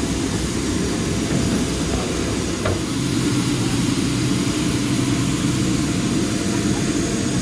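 Steady jet aircraft noise: a loud, even low rumble with a faint steady hum over it.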